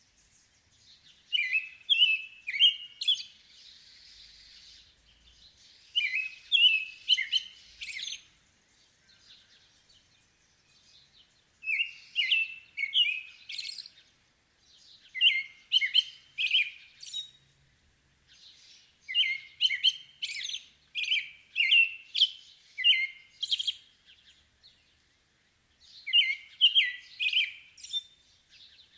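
A bird singing in repeated phrases of quick, high chirps and trills, each phrase two to three seconds long, with short pauses between phrases.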